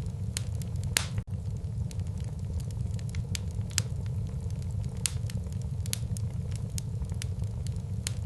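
Wood fire burning in a fireplace: irregular sharp crackles and pops over a steady low rumble of the flames. The loudest pop comes about a second in, and the sound cuts out for an instant just after it.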